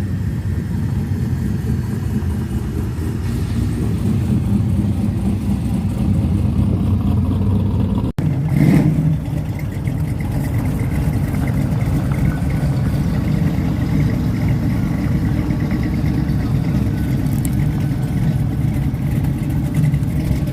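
Car engines running steadily with a low rumble. About eight seconds in, the sound drops out for an instant, then a brief louder burst follows.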